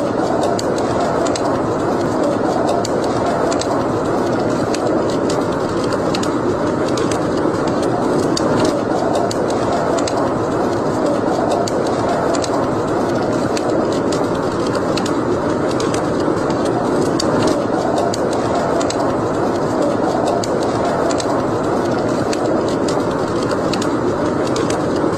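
Wood fire burning in a fireplace: a steady rushing of flames with frequent small, sharp crackles and pops.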